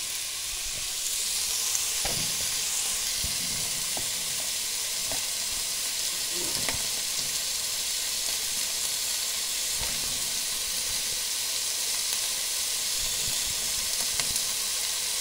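Chopped onions and carrots sizzling steadily in oil in a pot on a gas hob, with scattered light knocks and scrapes from a spatula stirring them.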